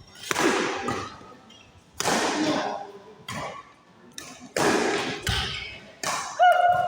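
Badminton rally in an echoing hall: racket strings hitting the shuttlecock about five times, roughly a second and a half apart, each hit ringing out, with a short squeal near the end.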